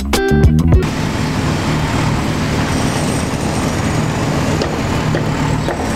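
Guitar music cuts off under a second in. A steady low hum then runs under an even rushing noise.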